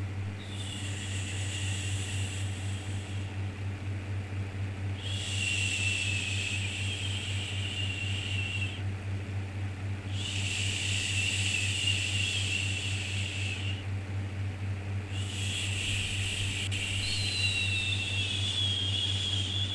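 Repeated 'shhh' shushing sounds for soothing a baby, each a long hiss of three to four seconds followed by a pause of about a second, four in all, over a steady low hum.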